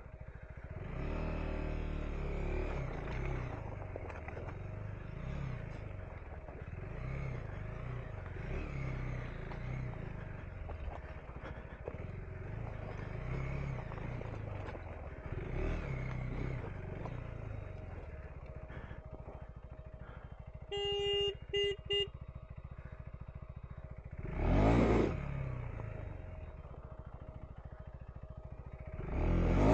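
KTM 390 Enduro R single-cylinder engine running as the bike is ridden over rough trail, its pitch rising and falling with throttle and gear changes. About three-quarters of the way in come a few short beeps, then two brief loud surges.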